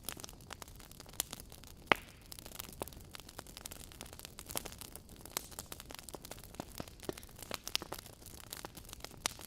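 Wood fire burning in a fireplace, crackling with irregular sharp pops over a soft hiss; the loudest pop comes just under two seconds in.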